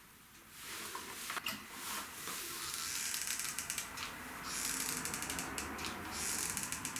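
Rapid mechanical clicking and ratcheting from a hand tool used on the amp, in runs of quick clicks, the densest a little after the middle and again near the end.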